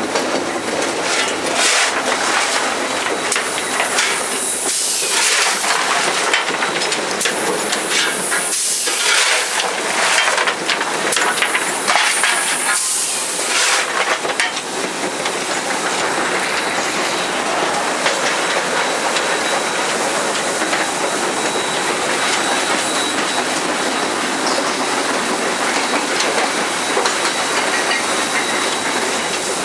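Southern Railway 630, an Alco 2-8-0 steam locomotive, running with a steady rumble of the train. Steam hisses loudly in three surges during the first half.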